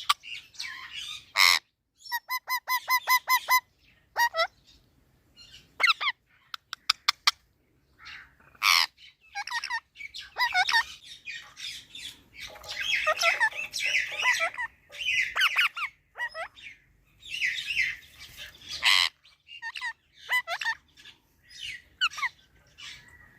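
A parrot squawking and chattering in irregular bursts of chirps, whistles and harsh calls, with a quick run of repeated pitched notes about two seconds in and a few loud harsh squawks.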